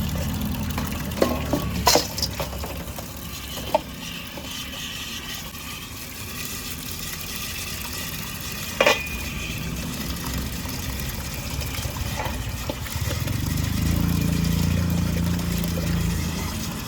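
Food frying in a pan with a steady sizzle, broken by a few sharp clanks of metal cooking utensils. A low engine rumble runs under it at the start and rises again near the end.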